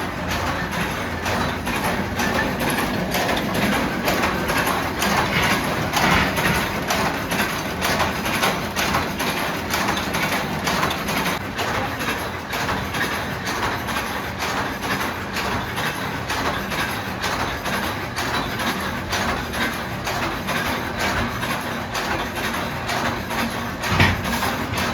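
Industrial machinery running steadily with a rapid, even clatter of metal clicks, and one louder knock near the end.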